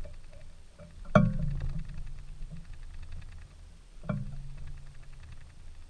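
Two sharp knocks about three seconds apart, each followed by a short low ringing, over a steady low hum.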